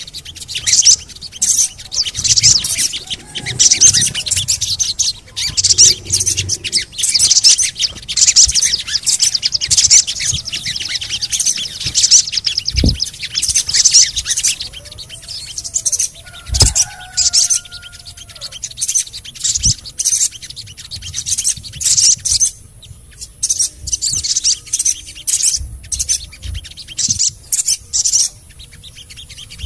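Sogon bird singing in rapid, busy, high-pitched chirps and twitters with barely a pause, plus a few lower gliding whistles and three soft low thumps in the middle.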